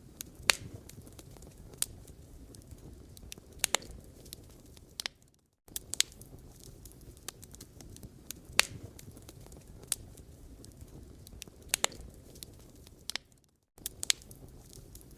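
Wood fire crackling in a fireplace: irregular sharp pops and snaps over a low steady rumble of burning. The sound briefly fades to silence twice, about five seconds in and again near the end.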